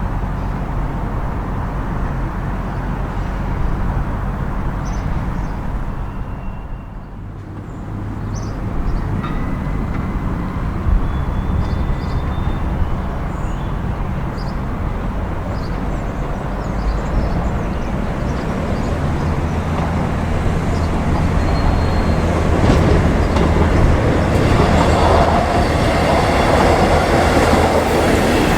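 A diesel train running through the station, its engine drone steady with a brief dip about seven seconds in, then growing louder towards the end as it comes closer.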